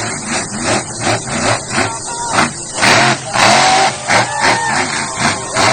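Monster truck engine revving in repeated bursts over crowd noise, with two louder surges about three seconds in.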